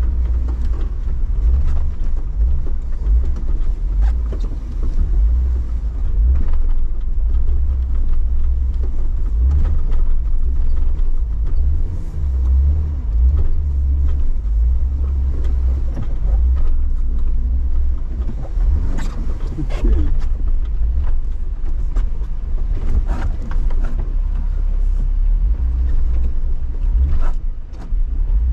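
Jeep driving off-road over snow: a heavy, steady low rumble with the engine note wavering up and down. There are a few short knocks in the second half.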